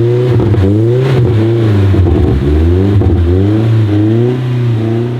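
Car engine revving up and down several times in quick succession, then holding a steady note near the end.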